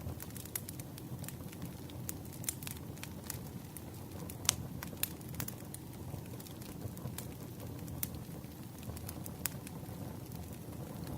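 Campfire burning, a steady low rumble of flames with irregular sharp crackles and pops from the wood, one louder pop about halfway through.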